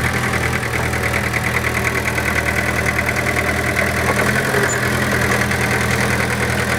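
A vehicle engine running steadily at an even pitch, with a fast, regular pulsing higher up.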